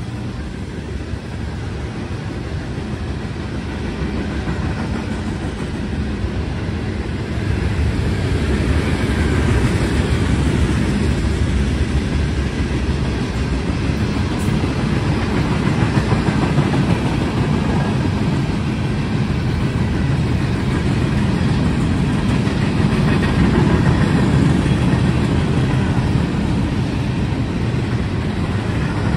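A train rolling past, its wheels running steadily on the rails, growing louder about eight seconds in.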